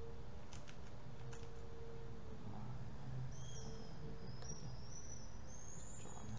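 Steady room noise with a low hum and a faint computer-mouse click or two in the first second and a half. From about halfway on, a bird chirps faintly in a high, wavering run.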